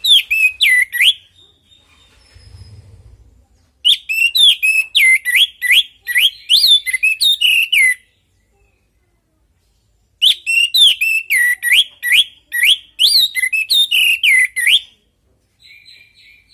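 Orange-headed thrush (anis merah) singing. It gives loud bursts of rapid, varied whistled notes: the first ends about a second in, and two longer phrases of about four seconds follow, with a short pause between each.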